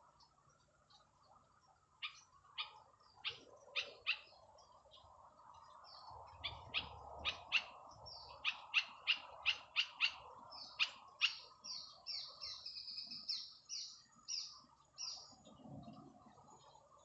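Small bird giving sharp, repeated chirps, a few at first and then quickly one after another from about six seconds in, ending in a run of short whistled notes.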